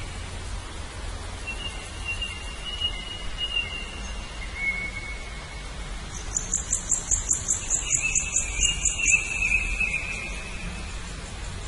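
Birds calling: long thin whistles, then a fast high trill of about six notes a second starting about six seconds in, over a steady hiss.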